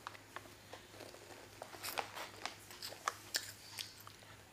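Faint, irregular crunching of a child chewing a mouthful of crunchy Smax snack rings.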